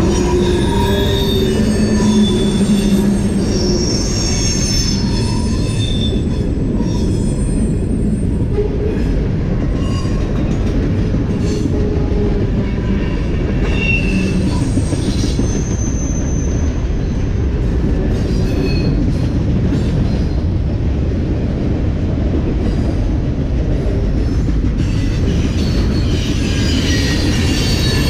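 A train rolling past, its cars making a steady heavy rumble on the rails, with short high-pitched wheel squeals coming and going.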